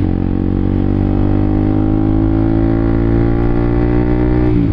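Honda CBR K45R motorcycle engine accelerating under load. Its pitch rises steadily through one gear, then drops briefly near the end as it shifts up.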